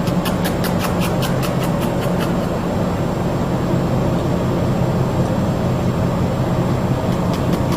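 Steady low rumble like a vehicle running, with a rapid high ticking about four or five times a second in the first two seconds and again near the end.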